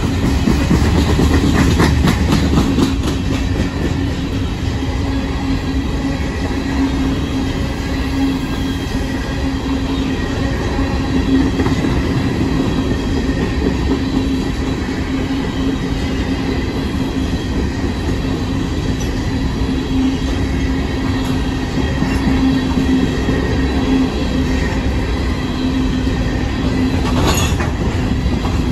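Freight train of covered hopper cars rolling past close by: a loud, steady rumble of steel wheels on rail with a constant low hum. A run of wheel clicks over rail joints comes in the first few seconds, and a brief high squeal near the end.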